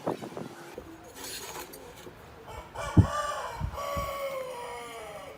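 A long drawn-out animal call, rising and then slowly falling in pitch over about two and a half seconds, typical of a rooster crowing. Dull knocks sound under it about three and four seconds in.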